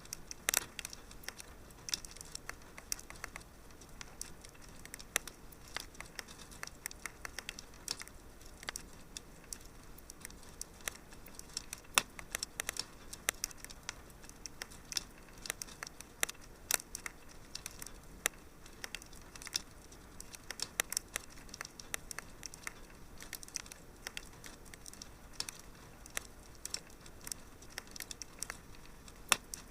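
Wood fire crackling in a fireplace: irregular sharp pops and snaps over a faint steady hiss, with a louder pop about twelve seconds in.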